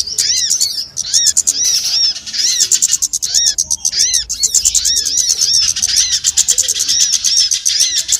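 Bird-lure recording of small songbirds chirping: a steady stream of short arched chirps, about two to three a second, over a fast, thin, high ticking trill.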